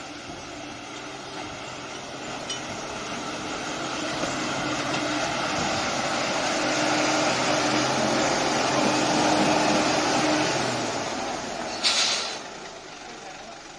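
Heavy truck engine running at a steady pitch and growing louder over several seconds, then dropping away about eleven seconds in. A short, sharp hiss follows about a second later.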